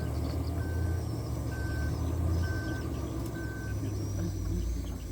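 Truck diesel engine running at idle under an electronic warning beeper that sounds short, evenly spaced beeps at one pitch, about one a second, stopping a little past halfway.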